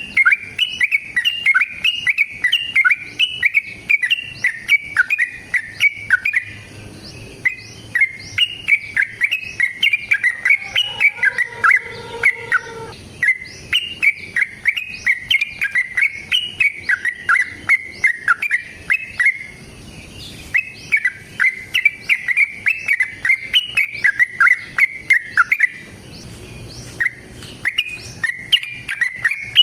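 Yellow-vented bulbul (trucukan) singing a long, fast chattering song of quick bubbly notes: an aggressive fighting song. It comes in phrases of about six seconds with short pauses between.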